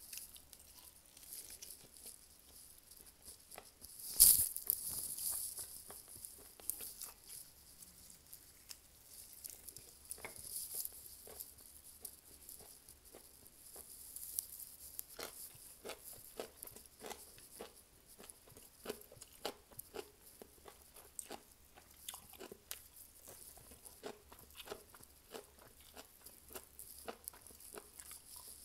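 Close-up eating sounds of a person chewing and biting into fried chicken, with many small crackles and wet mouth clicks, and one louder crunch about four seconds in.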